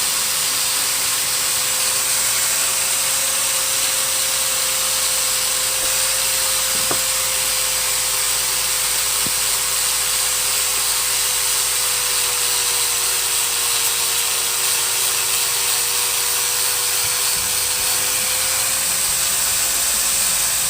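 A steady mechanical hum with a slightly wavering whine and hiss, with two light clicks about seven and nine seconds in.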